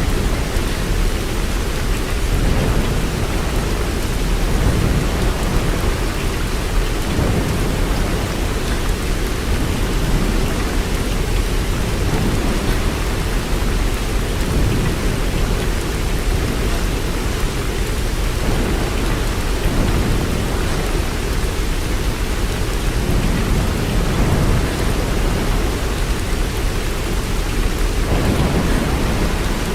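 Steady heavy rain, an even hiss, with a low rumble underneath that swells and fades every few seconds like distant thunder.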